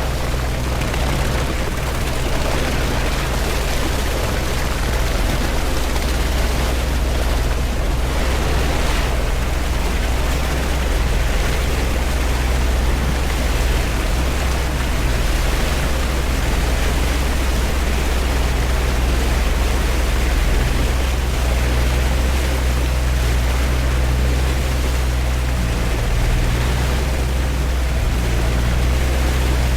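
A vehicle's engine drones steadily under a constant rushing noise, at an even loudness throughout.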